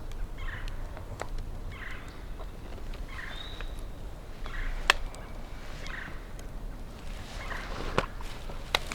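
Wild turkey gobbling, about six calls roughly a second and a half apart, with a few sharp clicks in between.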